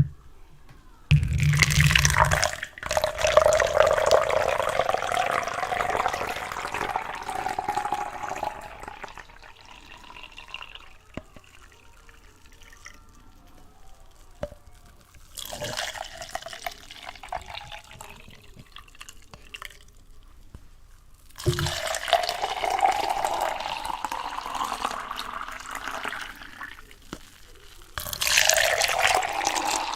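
Water pouring or running into a container in four spells of a few seconds each, the first and third starting with a low thump. Between the spells there are a few single drips or ticks.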